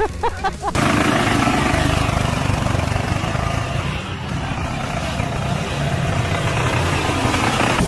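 An engine running steadily under a loud, rushing noise; it starts suddenly a little under a second in.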